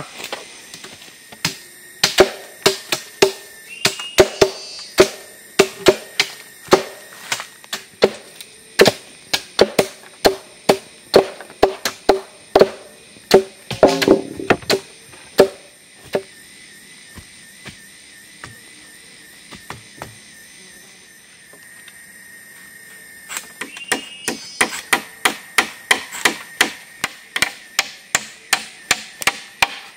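Rapid repeated blows of a hand tool striking wood, each a sharp knock with a short metallic ring, about two to three a second. They thin out midway and resume faster near the end, as wood is cut or worked for a shelter frame.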